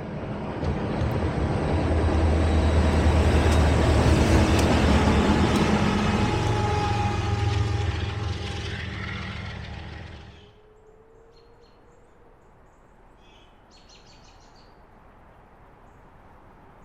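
A train passing, a loud rumble with a low hum that builds over the first few seconds, holds, then cuts off abruptly about two-thirds of the way through. It gives way to quiet outdoor background with a few faint high chirps.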